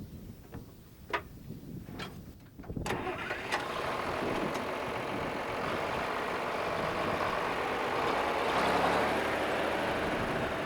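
Tractor engine starting about three seconds in, after a few clicks, then running steadily and growing a little louder near the end.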